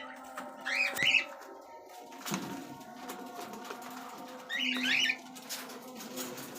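Cockatiels chirping in two short bursts, about a second in and again near five seconds in, with faint taps and a steady low hum between.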